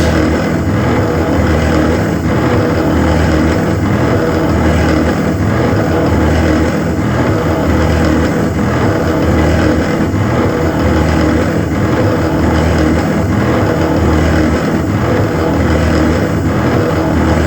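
CNC machine running steadily and loudly, its sound swelling and dipping on a regular cycle about every second and a half.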